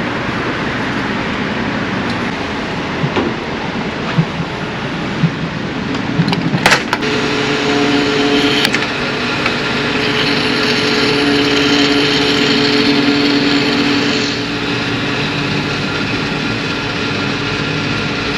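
Scrambler motorcycle riding through city traffic: engine running with wind and road noise, and a few sharp clicks in the first half. About seven seconds in, a steady engine note settles in, then eases off near the end.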